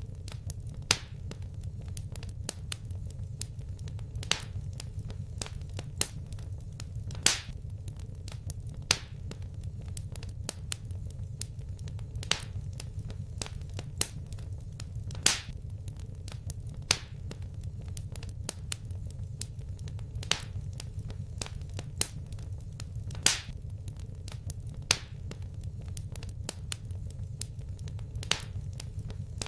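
Wood fire crackling in a fireplace: a steady low rumble of the flames with sharp pops and snaps every second or two.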